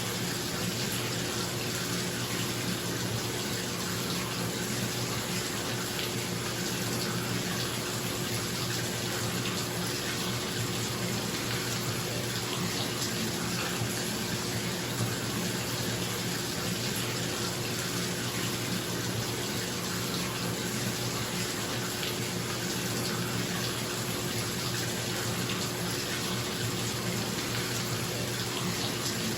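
Bathtub filling from a running tap, a steady rush of water, with a bathroom exhaust fan's steady hum beneath it.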